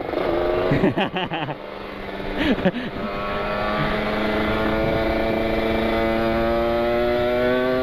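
Kawasaki Ninja 150 RR single-cylinder two-stroke engine under way, with a few quick revs in the first three seconds, then pulling steadily in one gear with its pitch rising slowly as it accelerates.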